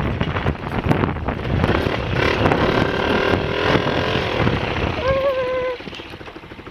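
Honda XLR125 dirt bike's single-cylinder four-stroke engine running loud and rough. It goes much quieter about six seconds in, just after a brief voice-like sound.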